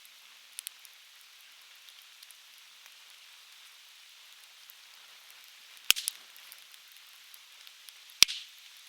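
Conifer firewood burning in a fire pit, crackling steadily over a constant hiss. Two sharp, loud pops come about six and eight seconds in.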